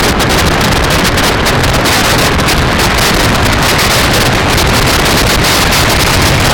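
Wind rushing over the microphone of a camera on a moving bike: a loud, steady roar with no breaks.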